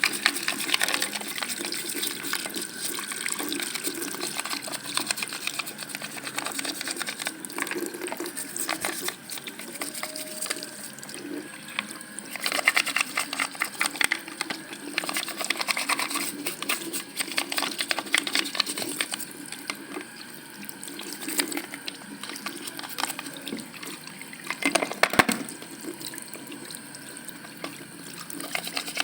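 Tap water running as the clogged lint filter of a washing machine is rinsed clean, with irregular clicks and knocks of the filter being handled.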